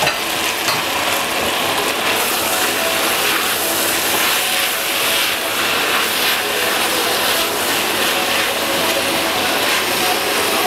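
Sliced mushrooms and onions sizzling in a stainless steel pot with a steady hiss, stirred with a wooden spoon that scrapes now and then.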